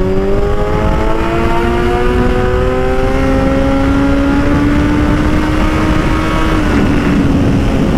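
Motorcycle engine pulling hard in one gear, its pitch rising slowly, then dropping about seven seconds in. A heavy rush of wind on the microphone runs underneath.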